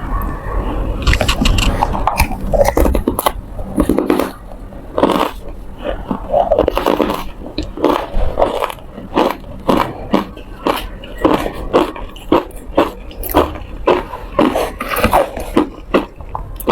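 Ice being bitten and chewed close to the microphone: dense, loud crunching, settling about halfway through into separate sharp crunches at about two a second.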